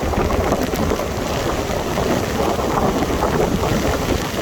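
Typhoon wind and sideways-driven rain, a loud, steady rush, with heavy wind buffeting on the microphone.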